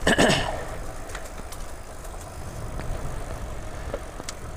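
Steady low rumble of wind on the microphone and tyre noise from a bicycle being ridden, with a few faint clicks from the bike.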